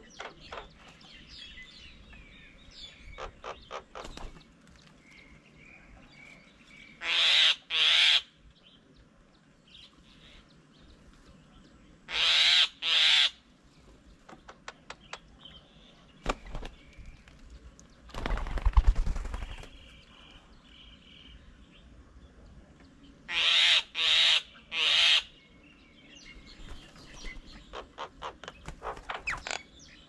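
Birds calling: loud harsh calls in twos and a three, several seconds apart, with runs of quick chattering between them. A short rush of noise comes about two-thirds of the way through.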